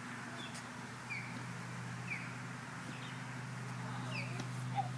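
Birds chirping: short, high notes that slide downward, repeating about once a second, over a steady low hum.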